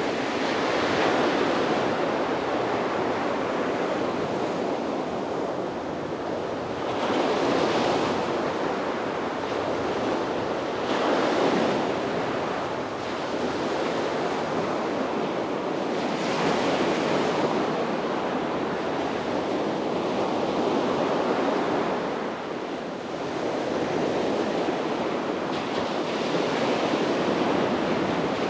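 Sea waves breaking and washing up on a beach, a continuous surf rush that swells with each wave every few seconds.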